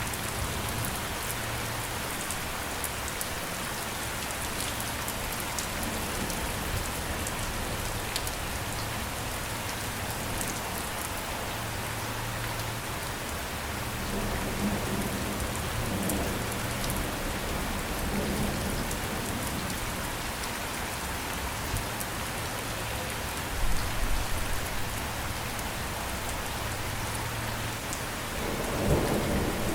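Steady heavy rain falling on a surface, a dense even patter, with a couple of brief low rumbles about two-thirds through and again near the end.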